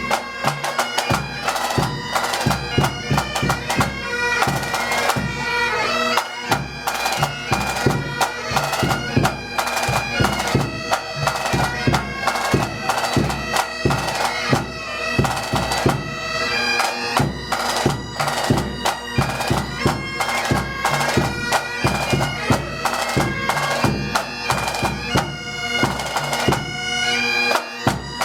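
Pipe band playing: Highland bagpipes with a steady drum beat, marching in.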